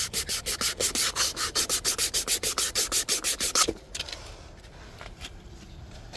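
Sandpaper being rubbed by hand on PVC pipe: quick, even back-and-forth scratching strokes, about six a second, that stop abruptly a little over halfway through. The pipe is being cleaned for cementing a joint.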